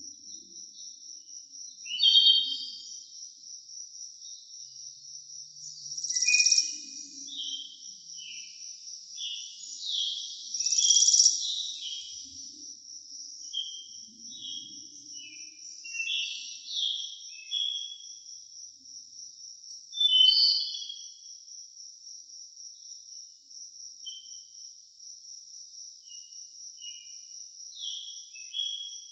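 Forest birds singing and calling in short, downward-sliding whistled phrases, loudest about 2, 6, 11 and 20 seconds in, over a steady, high-pitched pulsing insect trill.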